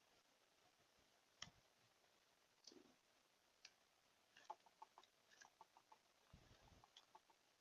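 Faint, scattered small clicks and taps, irregular and a little busier in the second half, with a couple of soft low thumps.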